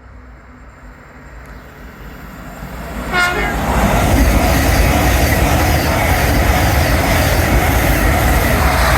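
Train approaching and passing through the station at speed, its noise swelling over about three seconds into a loud, steady rush of wheels on rail. A short horn toot sounds about three seconds in, as the train arrives.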